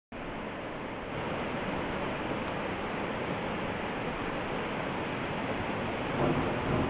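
Monsoon floodwater rushing steadily down a flowing desert wash.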